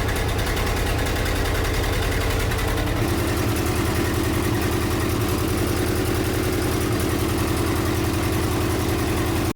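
1976 Ford F-600 dump truck's engine idling unevenly, with its pulsing changing about three seconds in: a fuel fault that the owner traces to a clogged carburettor jet leaving half the cylinders without fuel.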